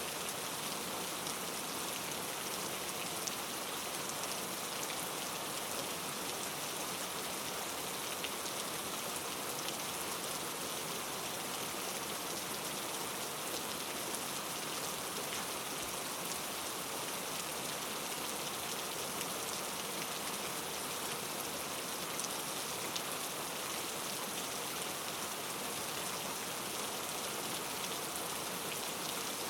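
Steady rain falling on a surface, an even hiss of many drops with occasional louder drop ticks.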